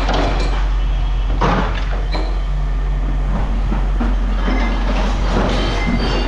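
Steady low machinery rumble with scrap metal clanking and rattling, a louder clank about a second and a half in.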